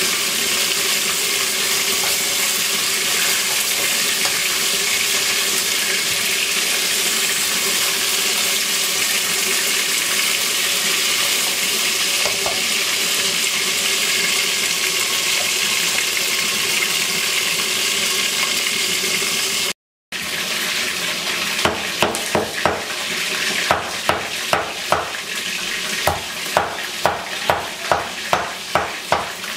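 Chicken wings sizzling as they fry in a pan. After a brief cut about two-thirds through, a utensil knocks against the pan in a steady rhythm, about two strokes a second, as the wings are stirred and turned.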